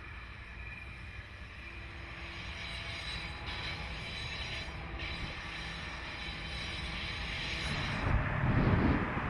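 Train approaching on the line: a steady rumble that grows louder, with faint thin steady tones over it, and a heavier low rumble swelling near the end.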